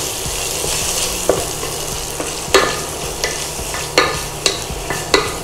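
Chopped onions and green chillies sizzling in hot ghee in a pressure cooker pot while a wooden spatula stirs them, knocking and scraping against the pot several times.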